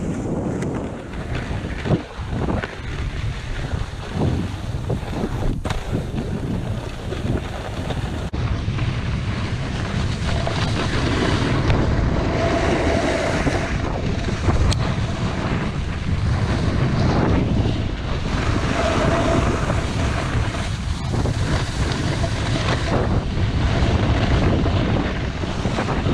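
Wind rushing over the microphone while snowboarding down, mixed with the board's edges scraping across hard, icy snow, the noise swelling and easing with the turns.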